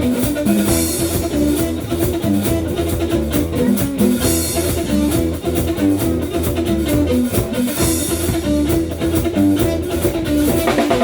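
Live band music: guitar playing a moving line of notes over a drum kit keeping a steady beat, with a cymbal swelling about every three and a half seconds.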